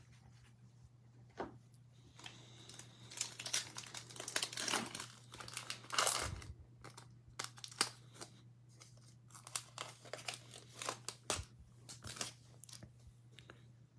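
Plastic trading-card pack wrappers being torn open and crinkled, in irregular bursts with small clicks, loudest in the first half.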